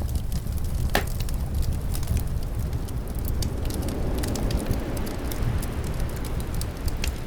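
Wood fire crackling, with many sharp irregular pops, over a steady low wind rumble that swells about four seconds in.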